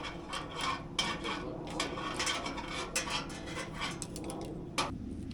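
Irregular light clinking and rattling clicks from hard objects being handled, over a low steady background noise.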